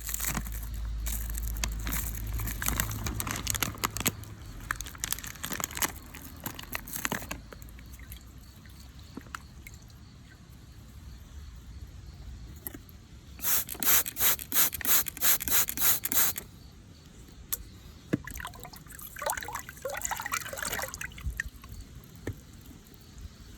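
Hand spray bottle fired rapidly, about nine hissing squirts in a quick even run a little past the middle. Scraping, rubbing and clicking come before and after, as the wet contents of a pot are stirred.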